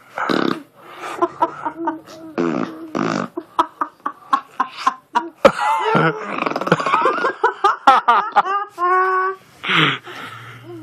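Baby blowing raspberries with her mouth pressed against a bare arm, a series of short, wet, fart-like bursts, mixed with laughter.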